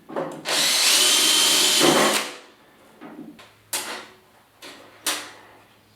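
Power drill running a 7/64-inch bit through a pilot hole, with a steady whine for just under two seconds before it stops. Afterwards come a few sharp knocks.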